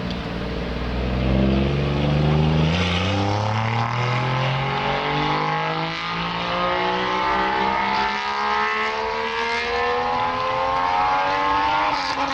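A car's engine and exhaust accelerating, the pitch climbing steadily for about ten seconds without a gear change, then cutting off suddenly at the end.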